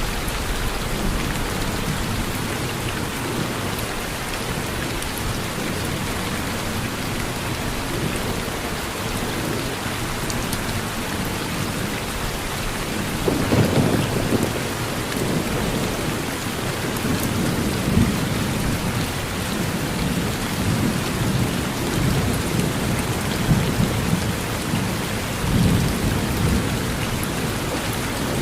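Steady rain falling on a porch, with low rumbling thunder rolling in about halfway through and swelling a few more times before the end.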